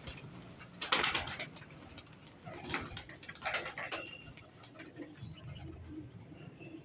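Domestic pigeons cooing in soft, low repeated coos, with a few short rustling bursts about a second in and again around three to four seconds in.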